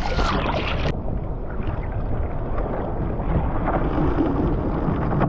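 Wind buffeting the microphone over water rushing and splashing along the hull of a small sailing dinghy under way.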